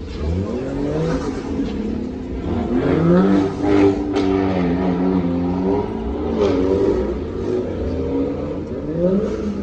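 Car engines revving and accelerating, the pitch climbing and falling several times with steadier running in between, and one sharp pop about four seconds in.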